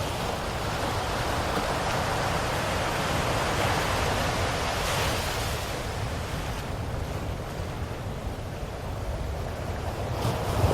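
Ocean waves washing in and receding, a steady rushing surf that swells to a peak a few seconds in, eases off, and builds again near the end.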